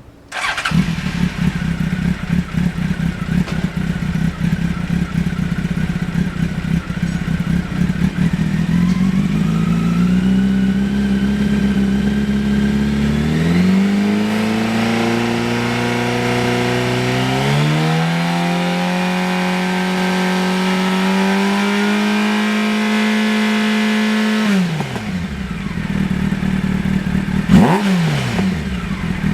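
Honda X4 (SC38) liquid-cooled inline-four motorcycle engine breathing through an aftermarket exhaust: it fires up and idles, then the revs climb in stages and are held, drop back to idle about 25 seconds in, and two quick throttle blips follow near the end.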